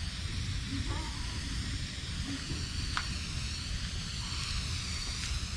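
Garden hose on a mist setting, spraying a steady hiss of fine water over a dry-poured concrete mix to hydrate it.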